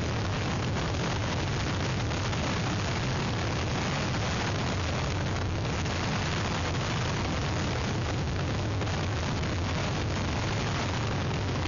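Hurricane wind and rain: a steady rushing noise with a deep rumble of wind buffeting the microphone.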